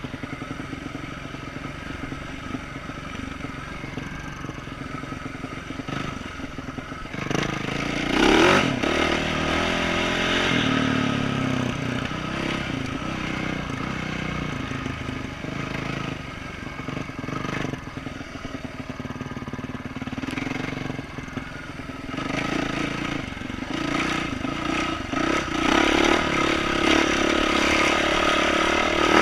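2012 Yamaha YZ450F single-cylinder four-stroke dirt bike engine with an aftermarket exhaust, ridden on a rooty trail with the throttle opening and closing. It revs up hard about seven to nine seconds in and builds again near the end.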